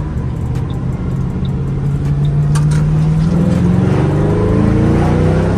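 Ford Mustang GT's 4.6-litre three-valve V8 with an aftermarket exhaust pulling hard under acceleration. Its note climbs steadily in pitch over the last few seconds and breaks off near the end at a gear change.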